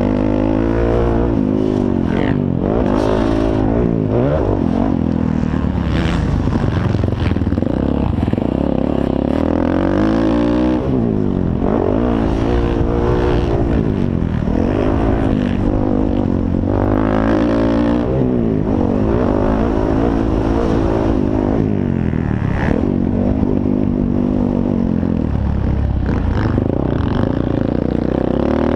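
Several motocross dirt bike engines racing, revving up and falling away again and again as the riders accelerate, shift and back off, with more than one engine heard at once.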